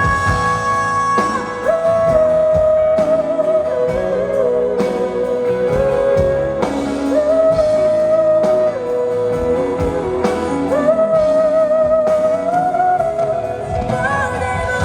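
Live pop ballad music played loud over a concert PA, with a held, wavering melody line over a steady drum beat.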